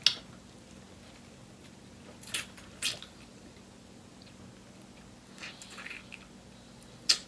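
Close-miked eating sounds: sharp bites of fried food, the loudest at the very start and near the end, with softer wet chewing smacks in between.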